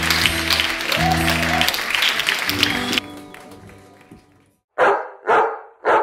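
Audience applauding over the band's sustained closing chords, which cut off abruptly about three seconds in. After a short fading tail come three short, loud sounds about half a second apart.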